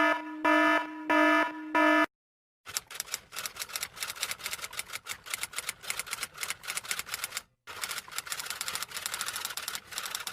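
Four short electronic beeps, then rapid clicking keystrokes of fast typing, with a brief pause partway through.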